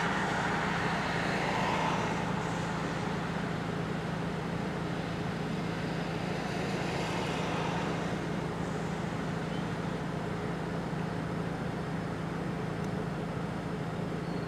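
Steady low hum and rushing noise of a motor vehicle, unchanging throughout.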